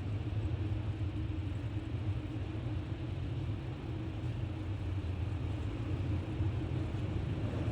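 Strong wind blowing and buffeting the microphone: a steady low rumble under a broad rushing noise.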